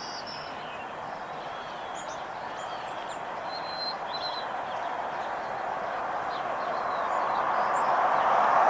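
Small birds chirping in short high notes over outdoor background noise, while a vehicle's noise grows steadily louder through the second half as it approaches.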